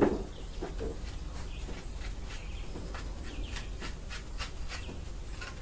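Scattered short, high chirps of small birds, irregular and overlapping, with a single knock right at the start.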